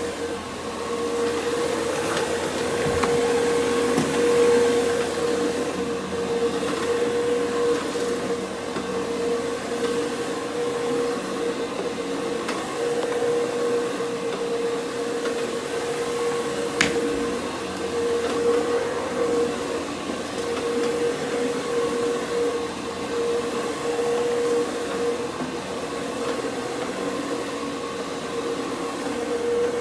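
Professional carpet-cleaning equipment running steadily with a constant whine, with one sharp click a little past halfway.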